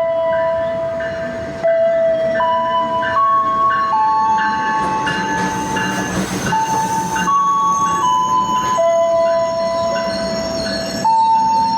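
A passenger train running into a station, its rumble under a loud tune of clear single held notes that steps up and down in pitch. A burst of hiss comes about five to seven seconds in.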